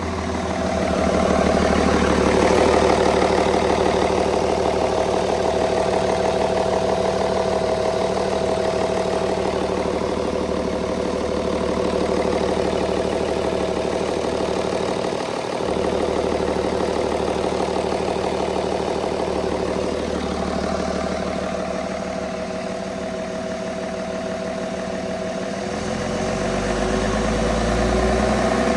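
Hino J08E-TA 7.7-litre inline-six turbodiesel running at a steady idle, its revs starting to climb and the sound getting louder near the end.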